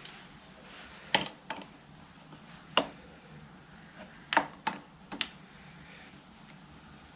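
About eight sharp, irregular clicks and knocks of hand tools and parts being handled while the mirror is unbolted from a Suzuki DR650's handlebar.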